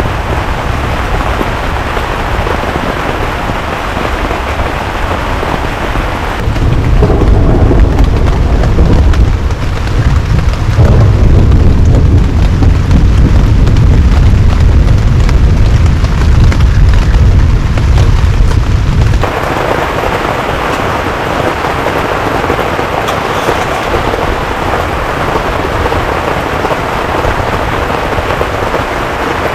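Heavy rain falling steadily. About six seconds in it changes abruptly to a louder, deeper rumble that lasts about twelve seconds before the steady rain hiss returns.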